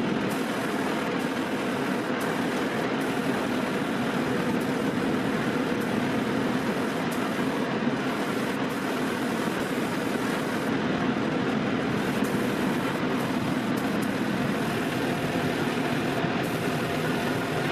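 A machine or motor running steadily, with an even hum and no breaks.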